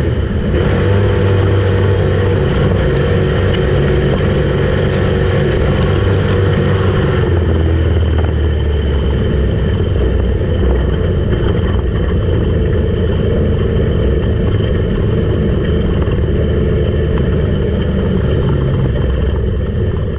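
Street stock race car engine running hard at speed on a dirt track, loud and continuous, its tone shifting about seven seconds in.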